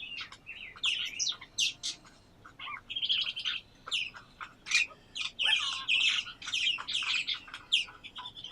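Several small songbirds chirping and singing together in overlapping quick calls and trills, a dense busy chorus throughout.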